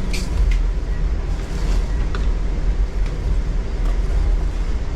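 Steady low rumble of a moving Amtrak passenger train heard from inside the car, with a few short clicks.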